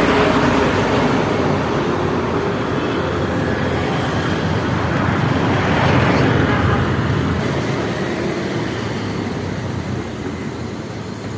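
Motor vehicle engine and road noise, swelling to its loudest about six seconds in and then slowly fading.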